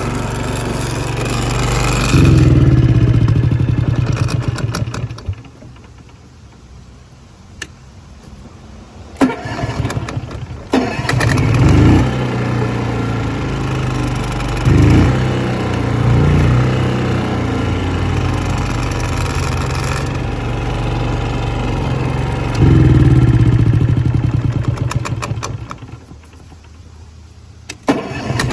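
Shindaiwa EGW-151MS engine welder/generator's engine running and revving up several times. It winds down and stops twice, and is started again about 11 seconds in and near the end.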